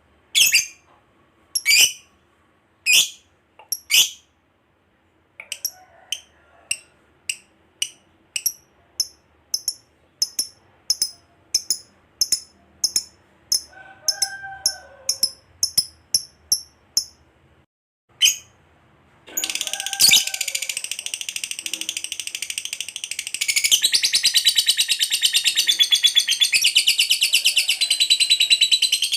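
Lovebird calling: sharp high chirps about a second apart, then quicker chirps about two a second. Past the middle, after a short pause, it breaks into a long unbroken rapid chatter that grows louder.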